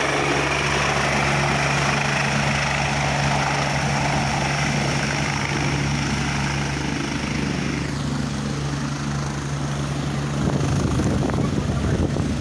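Helicopter landing: a steady low drone under a loud rushing hiss from the rotors. The higher part of the hiss eases about eight seconds in.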